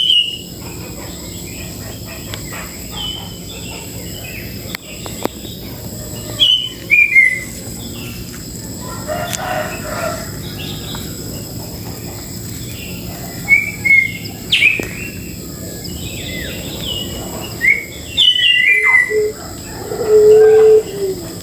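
Birds calling: short, falling chirps and whistles come every second or two, and a louder, lower and longer call sounds near the end.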